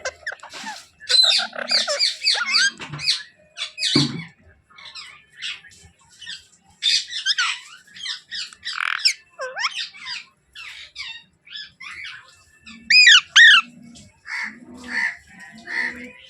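A baby Alexandrine parakeet calling and squawking in a run of short, bending chirps and squawks, with the loudest pair of squawks a little after thirteen seconds. A low knock sounds about four seconds in.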